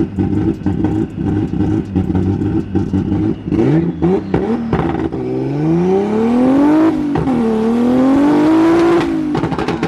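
Turbocharged BMW E46 M3 drift car's engine heard from inside the stripped cabin: choppy low-rev running, a couple of quick blips, then a hard pull with steadily rising pitch. A short dip at a gear change about seven seconds in is followed by another rising pull that drops off suddenly near the end.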